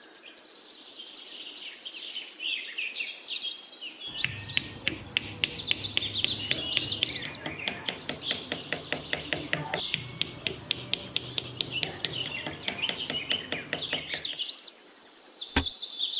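Birds chirping and twittering throughout, joined about four seconds in by a rapid, even clicking over a low hum that stops shortly before the end.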